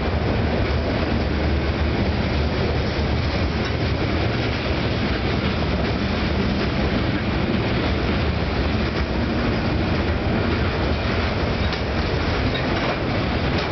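Loaded stone hopper cars of a freight train rolling past, their steel wheels making a steady, unbroken noise on the rails.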